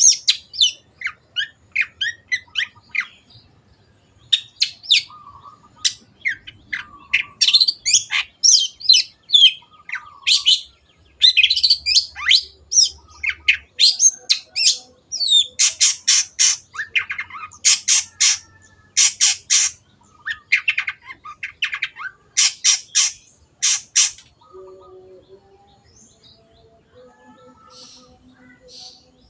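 Long-tailed shrike (cendet) singing in fast, varied phrases of short chirps and scratchy notes. In the second half come rapid series of loud, harsh squawking calls, and the song stops about three-quarters of the way in, leaving only faint sounds.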